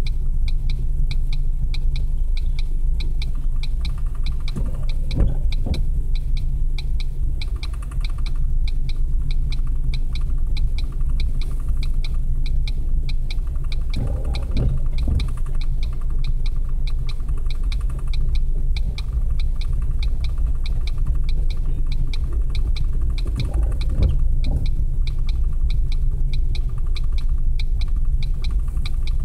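Loaded Norfolk Southern coal train of hopper cars rolling past, heard from inside a car as a steady low rumble with a fast, even ticking over it. The car's intermittent windshield wipers make a short sweep three times, about ten seconds apart.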